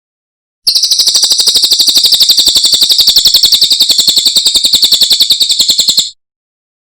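A cililin songbird's steady, very rapid high-pitched trill of about fifteen notes a second, lasting about five seconds. It starts abruptly about half a second in and cuts off sharply.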